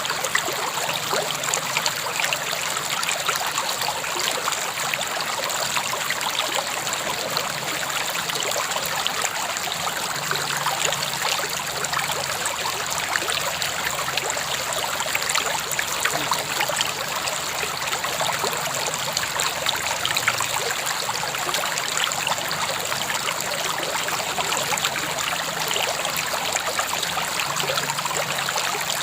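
A river or stream flowing steadily over rocks, a continuous rushing and trickling of water with small splashes.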